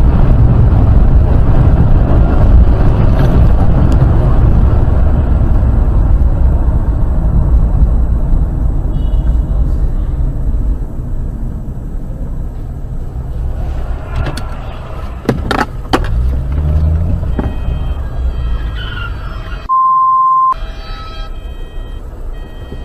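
Car driving with a loud, steady low rumble of road and wind noise that slowly fades. A couple of sharp knocks come about fifteen seconds in, and a short single-tone bleep comes near the end.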